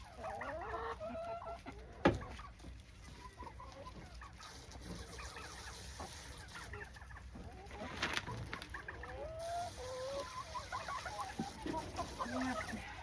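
Hens clucking, with many short calls throughout, and a single sharp knock about two seconds in.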